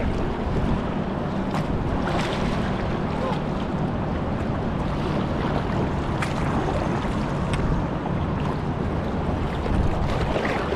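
River water rushing steadily around a kayak, with wind rumbling on the microphone and a few faint clicks.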